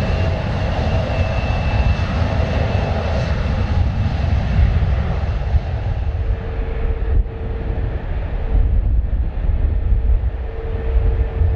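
Jet airliner's engines, a loud deep rumble with a whine on top; the higher whine fades over the first few seconds while a lower steady tone comes in about halfway.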